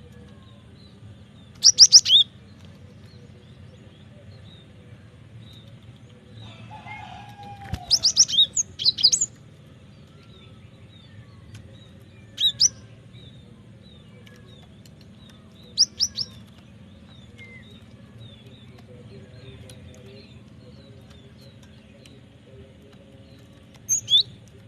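Cinereous tit (gelatik batu) calling in five short bursts of sharp, quick, high notes with pauses between them, over a faint steady low hum.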